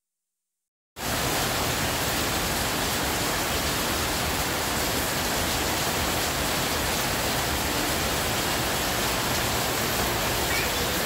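Heavy rain falling steadily in a downpour, a dense, even hiss that cuts in suddenly about a second in.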